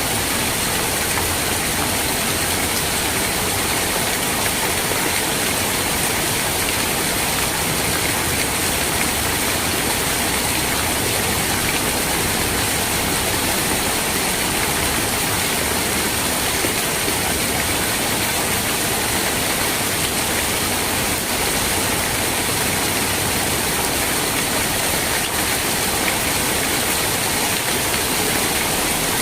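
Steady rain falling, a dense even hiss with no breaks or single drops standing out.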